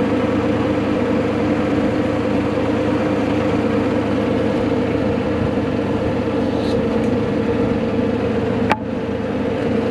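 Tractor engine running steadily at a constant speed, with a single sharp knock about nine seconds in.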